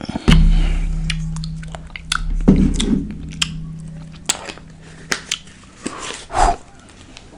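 Close-miked chewing and biting of a red hot beef burrito, with wet mouth clicks scattered through. A heavy thump comes just after the start, and its low hum fades away over the next few seconds.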